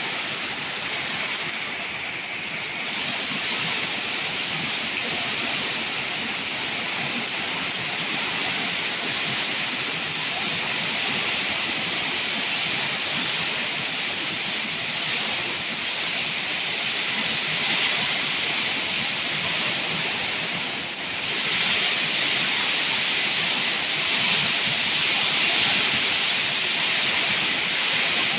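Torrential rain from a thunderstorm downpour pouring down steadily, a dense even hiss that grows slightly heavier in the second half.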